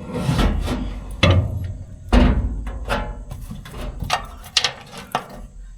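Irregular metal clanks and knocks, about half a dozen, from steel parts and tools being handled on a haybine's wobble-shaft drive, over a low rumble.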